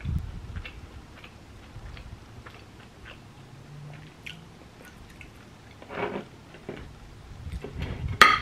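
A person chewing a mouthful of toasted French bread sandwich with soft, wet mouth clicks, louder about six seconds in. Near the end a sharp ceramic clink as one plate knocks against another.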